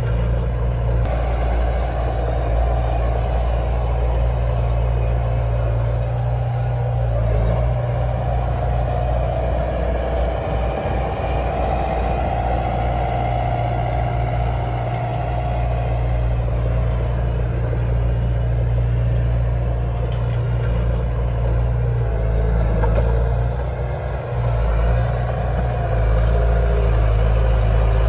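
Heavy diesel engine of earthmoving machinery running steadily, its pitch and load shifting several times and growing louder near the end.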